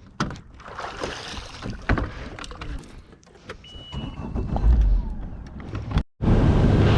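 Knocks and rattles on a bass boat, then, after a short break about six seconds in, the boat running fast across the lake with a loud, steady engine and water rush and heavy wind on the microphone.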